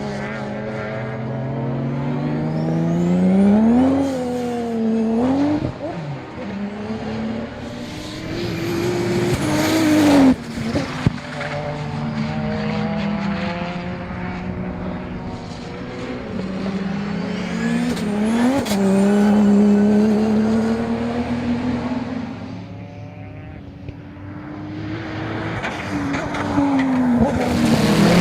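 Turbocharged Ford Barra 4.0-litre straight-six car engine under hard acceleration, its pitch climbing and dropping back several times as the revs rise and fall, with a faint high whine that rises with the revs. There are a few sharp cracks about ten seconds in.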